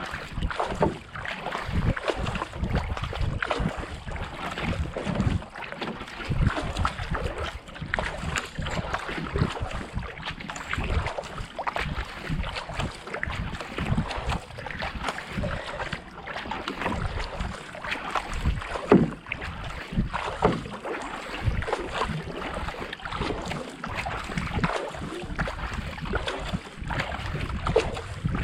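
Kayak paddle blades splashing in and pulling through the water in a quick, steady rhythm of about 70 to 80 strokes a minute, over wind noise on the microphone.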